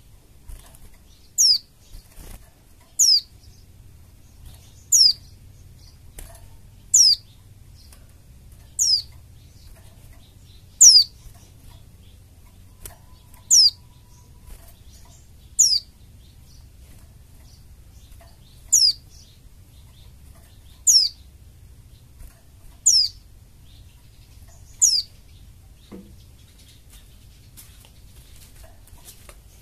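White-eye (pleci) calling: a single short, thin, very high note that slides steeply downward, repeated about every two seconds, as in a lure call recording for caged white-eyes. A faint low hum lies underneath.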